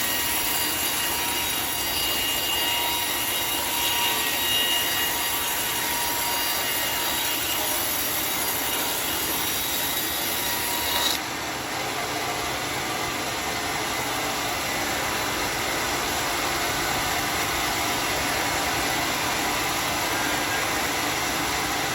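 Homemade sawmill saw cutting through a teak log, a steady grinding noise with a thin high whine. About halfway through the sound changes abruptly: the high whine drops away and a duller steady noise goes on.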